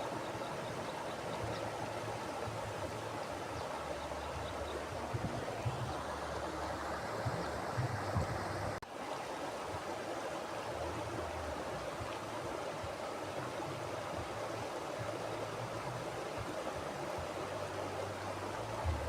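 Mountain river flowing over rocks: a steady, even rush of water, with a brief dip in level about nine seconds in.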